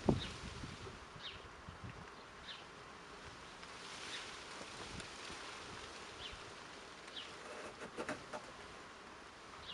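Faint outdoor background with a small bird giving short, high, falling chirps about once a second, and a few faint sharp clicks about eight seconds in.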